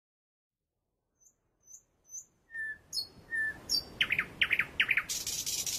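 Birds chirping, fading in from silence: short high chirps, then whistled notes and quick trilled calls. About five seconds in, a high steady hiss joins them.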